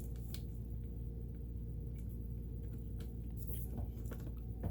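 A steady low hum with a few faint, brief clicks and taps of small parts being handled on a sewing machine during its disassembly, near the start and again near the end.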